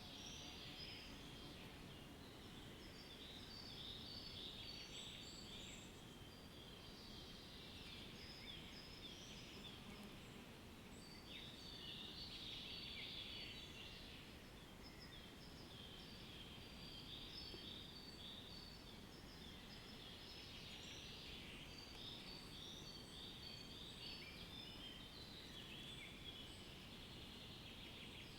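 Faint chorus of birds chirping and trilling, many short high calls overlapping throughout, over a low steady background hiss.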